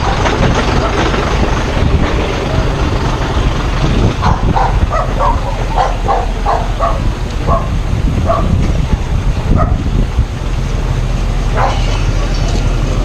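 A dog barking a quick run of about a dozen short barks, roughly three a second, in the middle. Under it a steady engine keeps running.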